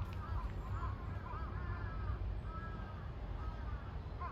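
Birds calling over and over in short arched calls, over a steady low rumble.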